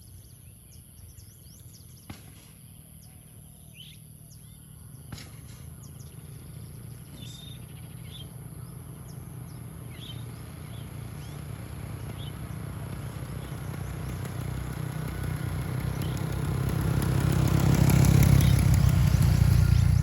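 Birds chirping in short calls while a motor vehicle's engine drone grows steadily louder, peaking near the end and beginning to fade: a vehicle approaching and passing.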